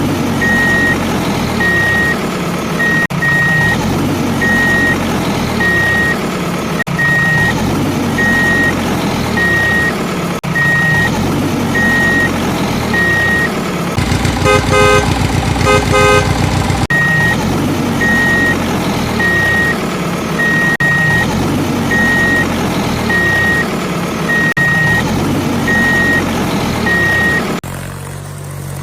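Vehicle engine running with a rumble that swells and falls every couple of seconds, over a single high beep repeating about once a second. Around halfway a horn toots rapidly for a couple of seconds. Near the end the beeping stops and the engine sound changes to a quieter, steadier hum.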